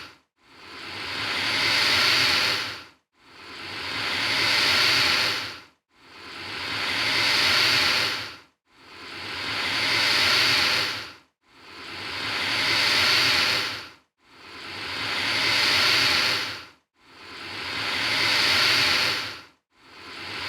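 An alligator hissing over and over, one hiss about every three seconds. Each hiss swells louder for about two seconds and then stops short before the next, every one alike.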